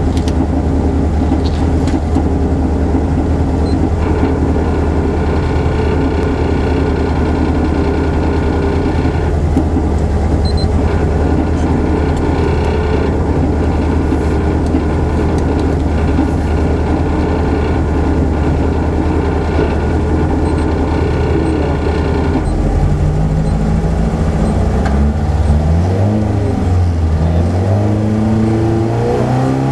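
Rally car engine idling steadily and loudly, then from about 22 seconds in revving up and down repeatedly as the driver holds the car at the stage start ready to launch.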